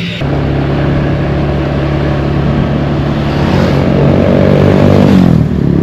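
Small motor scooter engine running under way. It speeds up with a rising pitch for about two seconds, then drops back near the end as the throttle is eased off.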